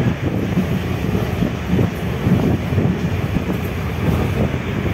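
Indian Railways express train running at speed, heard from a coach window: a steady low rumble of the wheels on the track with wind rushing past.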